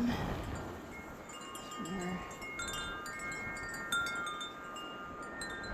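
Wind chimes ringing in the wind, several clear tones overlapping and sustaining.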